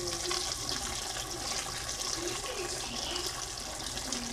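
Diced pork and vegetables frying in a wok: a steady sizzling hiss with fine crackling throughout.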